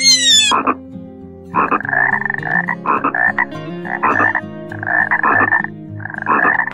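A frog croaking: five pulsed calls about a second apart. Before them, a shrill wavering animal call cuts off about half a second in.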